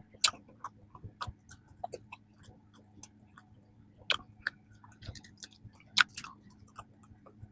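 Close-miked chewing of peanut cream bread: irregular mouth clicks and smacks, a few of them louder.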